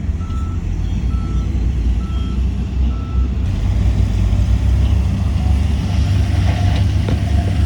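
Heavy diesel earthmoving machinery running with a steady low rumble, while a reversing alarm beeps about once a second and stops about three seconds in. A few knocks come near the end.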